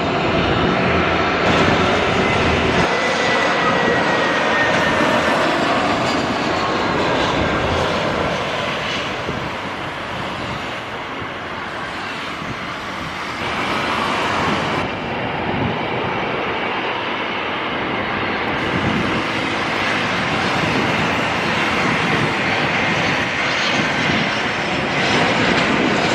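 Airliner engines running loud and steady as an aircraft operates nearby, with a faint high whine over the noise. The sound eases a little near the middle, then builds again.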